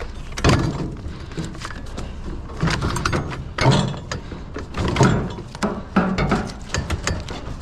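Scrap metal being shifted and loaded into a trailer: a series of irregular clunks and knocks, several a second at times, over a steady low rumble.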